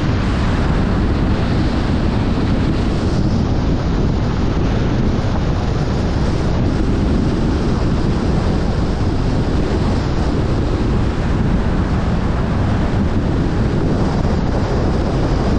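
Strong wind buffeting the microphone over surf breaking on the beach: a loud, steady rumbling rush with no pauses.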